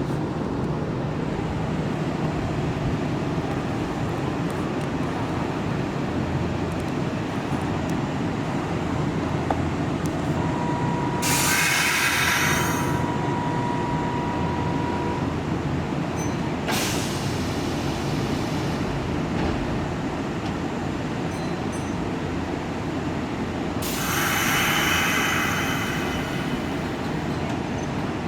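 Kintetsu electric train rumbling at the station. Three short bursts of hissing come through it, and a steady high tone lasts a few seconds near the middle.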